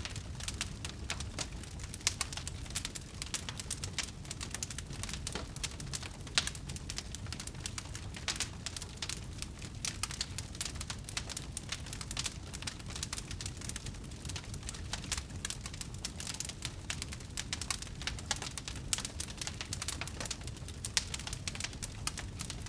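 Wood fire burning in a fireplace: dense, irregular crackling and popping over a low steady rumble of the flames, with a few sharper pops standing out, about two seconds in, around six seconds in and near the end.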